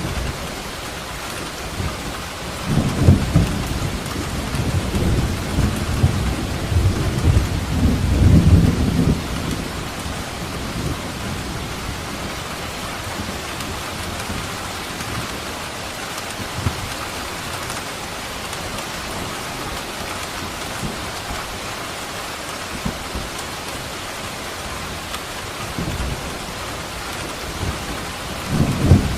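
Steady heavy rain falling, with a rolling rumble of thunder that swells from about three seconds in and dies away near ten seconds; another thunder rumble begins at the very end.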